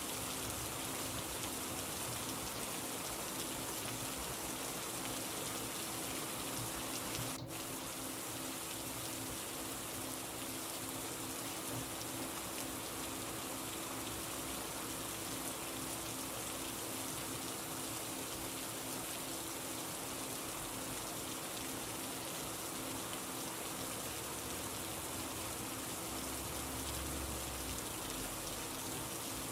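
Steady rain falling, an even hiss with a faint low hum underneath and a momentary dip about seven seconds in.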